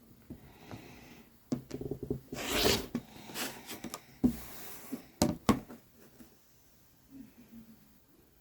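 Fabric being cut into strips with a rotary cutter along a quilting ruler on a cutting mat: two short scraping cuts, mixed with sharp knocks of the ruler being handled and set down.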